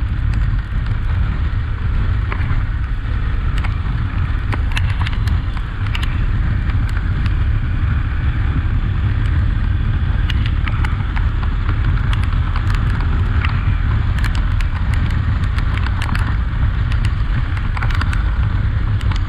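Honda XRE 300 single-cylinder motorcycle riding steadily, with a heavy low rumble of wind buffeting the microphone and many short clicks and crackles throughout.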